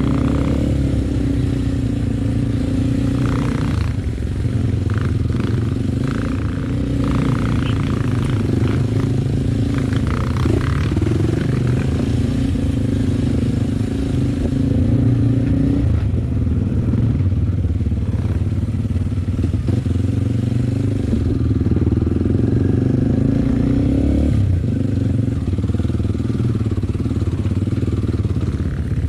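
Dirt bike engine running under way at fairly steady throttle, its note shifting a few times as the throttle or gear changes.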